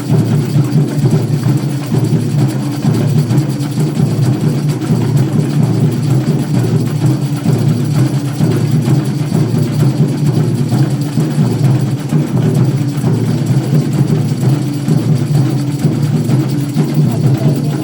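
A live band playing at rehearsal, with drums and percussion running through it.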